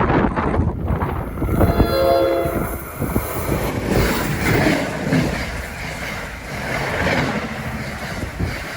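A passenger train sounds a short horn blast about two seconds in and passes close by, with loud, continuous wheel and rail noise.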